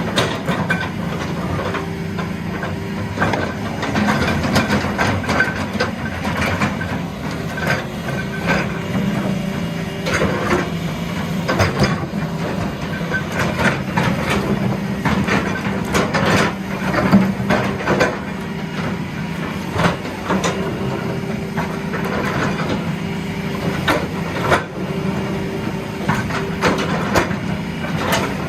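Heavy diesel machinery running with a steady low drone, broken by frequent irregular knocks and clanks.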